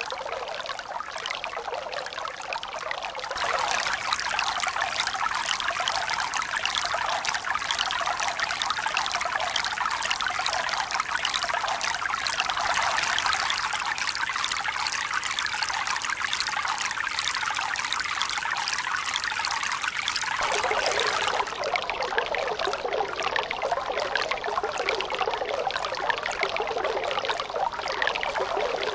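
Steady rushing, splashing water. It turns suddenly louder and brighter about three seconds in and shifts again abruptly around twenty-one seconds.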